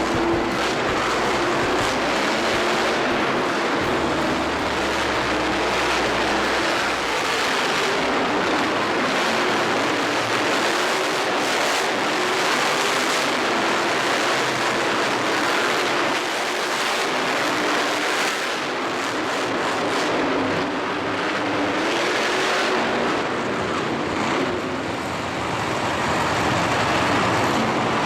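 Motorsport vehicle engines running and revving loudly, with wavering engine pitch over a dense wash of noise.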